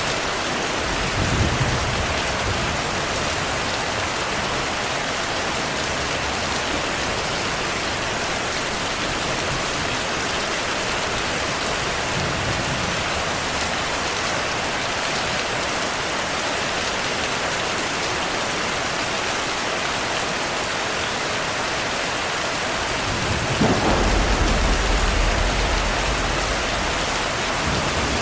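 Steady rain with rolling thunder: a short rumble about a second in, a faint one near the middle, and a louder, longer rumble lasting several seconds near the end.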